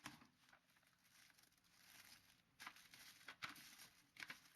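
Faint, scattered light taps and knocks over quiet hiss, a few standing out about two and a half, three and a half and four seconds in.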